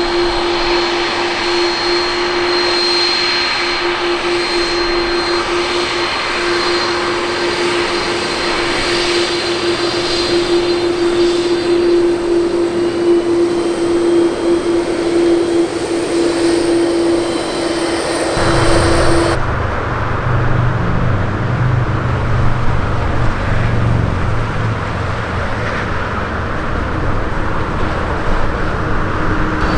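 Jet airliner engines: a steady engine whine with a high thin tone. About two-thirds of the way through it cuts off suddenly and gives way to a deeper, heavier engine rumble.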